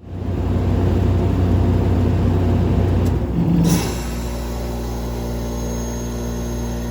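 1983 Whirlpool heat pump running with a loud low hum and fan noise. About three and a half seconds in there is a click and a hissing whoosh, after which the fan noise drops away and a steadier compressor hum with a few held tones remains. This is typical of the reversing valve switching over as a defrost cycle begins.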